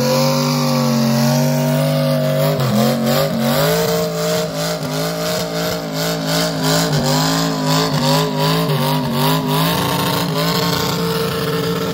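Chevrolet 383 stroker small-block V8 running at high revs through open headers during a tyre-smoking burnout. The engine note holds steady, dips about two and a half seconds in, then rises and falls repeatedly before settling to a steadier note near the end.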